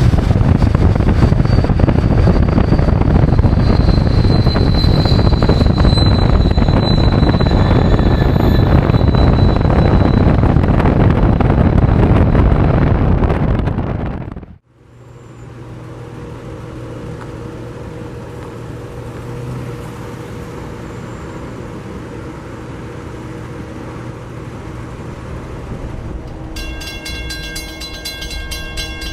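A freight train passing close, a loud steady rumble of wheels and cars with a high squeal over it, which cuts off abruptly about halfway through. Then a quieter diesel locomotive drone, and near the end the train's horn starts sounding.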